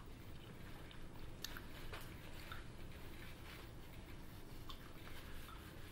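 A person chewing a mouthful of food with the mouth closed: faint, scattered small mouth clicks.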